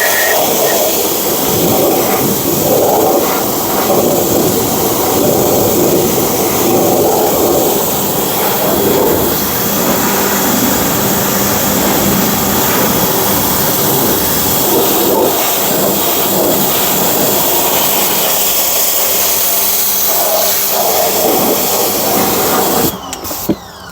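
Small pressure washer running steadily, its water jet spraying hard. It cuts off about a second before the end.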